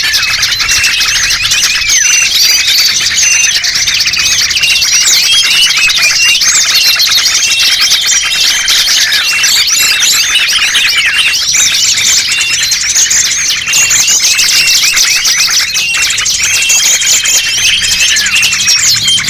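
Dense, loud chorus of many small birds chirping and twittering over one another, a bird-lure (pikat) recording meant to draw in small songbirds.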